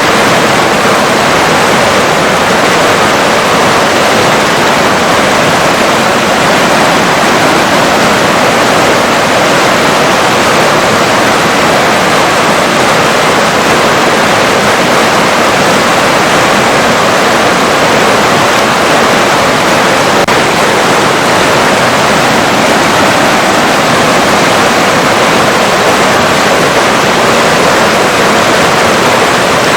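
River water flowing: a loud, steady rush without breaks or changes.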